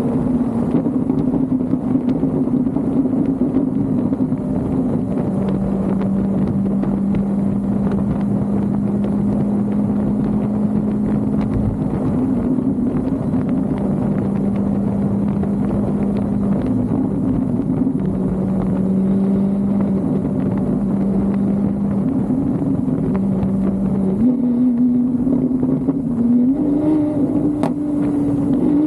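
Car engine running while driving at a steady speed, a constant drone over road noise. The pitch shifts in small steps a few times and rises a little near the end as the car speeds up.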